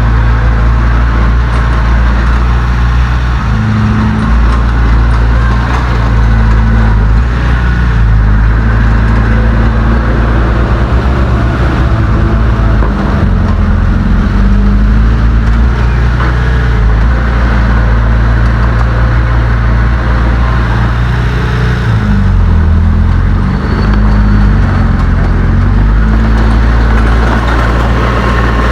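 Heavy diesel engine of earthmoving equipment running loudly and steadily under load. Its note dips and rises a few times as the load and throttle change.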